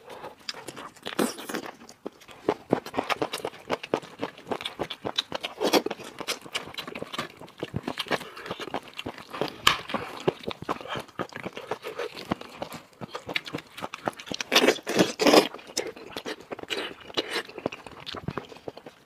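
A person eating spicy lamb head close to the microphone: chewing and biting, with many short crunches and wet mouth clicks, and a louder spell of crunching about three-quarters of the way through.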